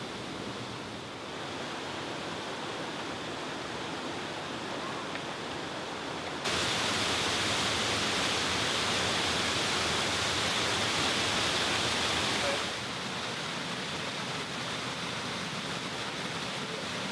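Rushing water of a waterfall, a steady hiss that turns suddenly louder about six seconds in and drops back just before the end of the second third.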